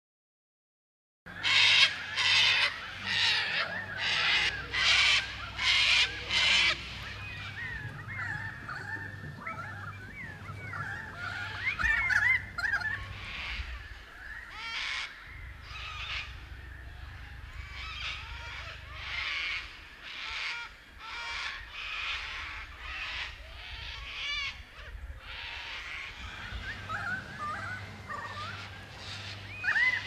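Several wild birds calling. A run of about eight loud, harsh squawks in the first few seconds gives way to quieter warbling and whistled glides from several birds, with further harsh calls scattered through.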